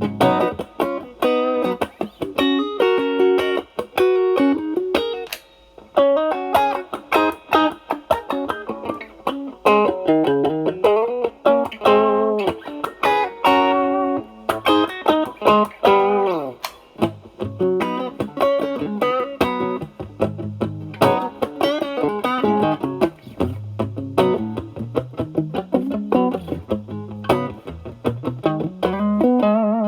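Electric guitar (Stratocaster with single-coil pickups) played through an Ibanez Tube Screamer Mini overdrive with the drive knob at about 9 o'clock, into a Marshall Valvestate amp's clean channel. It gives a lightly overdriven tone, playing improvised single-note lead lines with string bends.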